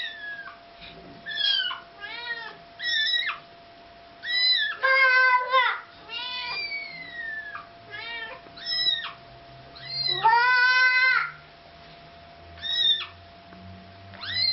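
A kitten mewing over and over in short, high calls, some sliding down in pitch. Two longer, louder and lower meows come about five and ten seconds in, typical of an adult cat answering.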